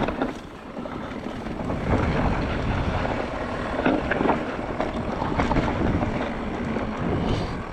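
Wind buffeting a GoPro action camera's microphone on a fast mountain-bike descent, over the steady rumble of tyres on a rough forest trail, with the Mondraker Crafty R mountain bike rattling and knocking over bumps throughout.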